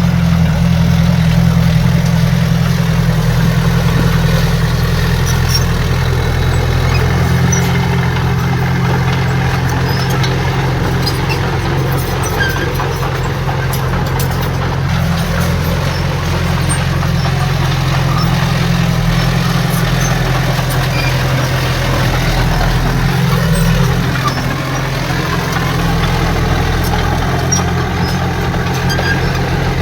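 Heavy diesel engine of earth-moving machinery running steadily at a low, even speed.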